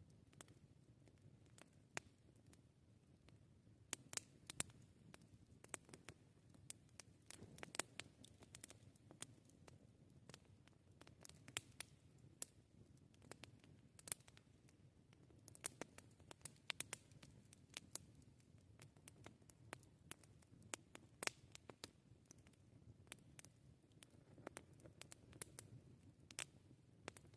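Wood campfire crackling: irregular sharp pops and snaps, at times several in quick succession, a few much louder than the rest, over a faint low rumble of the burning fire.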